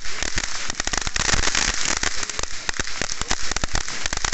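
Many fireworks and firecrackers going off at once, a dense, continuous crackle of sharp pops with no pause.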